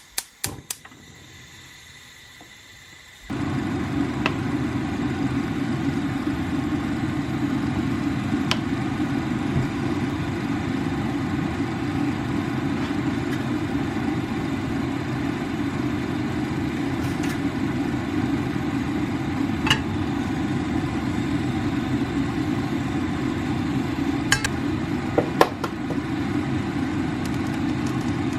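A few clicks, then a machine switched on about three seconds in, running with a steady, even hum, with a few light clicks over it.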